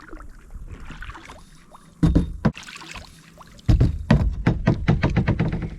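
Kayak knocking and rubbing against a dock: a brief cluster of knocks about two seconds in, then a longer run of rapid knocks and bumps near the end.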